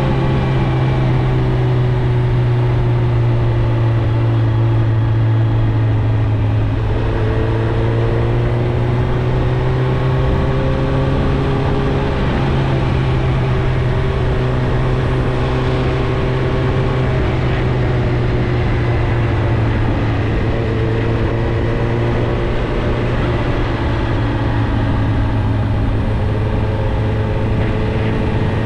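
Suzuki GSX-R1000's inline-four engine heard through its stock exhaust while riding at fairly steady revs, the pitch drifting gently up and down with the throttle, with a couple of abrupt shifts in pitch.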